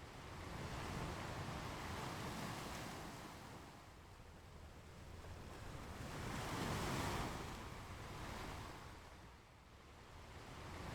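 Ocean waves washing onto a beach, rising and falling in slow swells, the biggest wave about seven seconds in.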